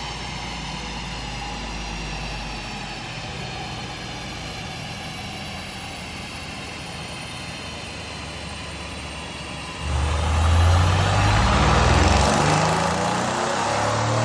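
Mercedes C63 AMG V8 engine under a rolling-road dyno run, with the revs slowly falling for about ten seconds. It then opens up sharply and gets much louder, its revs climbing steadily.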